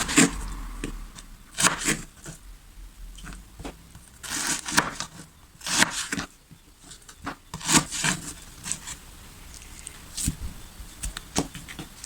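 Kitchen handling noises: irregular knocks and clinks of dishes and utensils being moved and set down.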